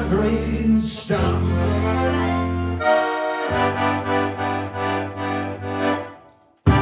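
Accordion playing the closing bars, held chords over a steady bass, then fading out about six and a half seconds in. A sharp knock follows just after.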